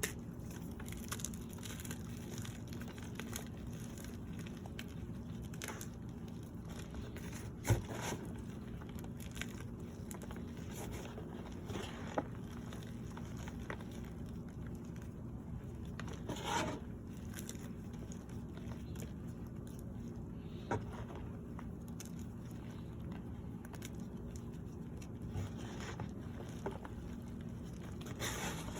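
Cornstarch topped with yellow cornstarch paste being crushed and crumbled, with scattered soft crackles and a few sharper cracks over a steady low hum.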